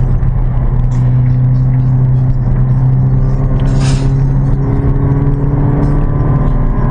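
Car engine running steadily under way, its pitch creeping up slowly. Right at the end the pitch shifts abruptly, as an automatic gearbox changing gear does.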